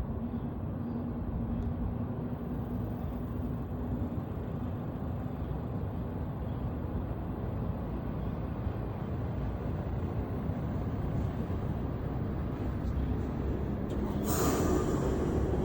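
Heat pump running with a steady low rumble and hum. About fourteen seconds in, a sudden hiss rises and the running sound gets louder, with its hum shifting to a different pitch.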